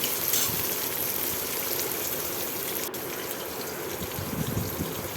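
Chicken liver frying in oil in a kadai: a steady sizzle.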